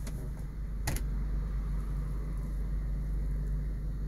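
Steady low hum of a Toyota car's engine idling while parked, heard from inside the cabin, with one sharp click about a second in.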